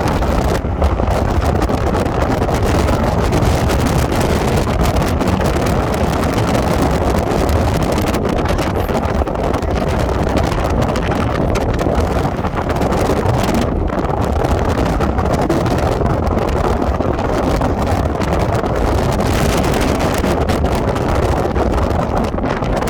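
Strong wind buffeting the microphone: a loud, steady rushing with a heavy low rumble.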